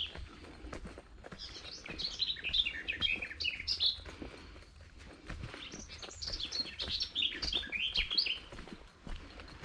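A songbird singing two phrases of quick chirping notes, each lasting about two and a half seconds, with footsteps along the path underneath.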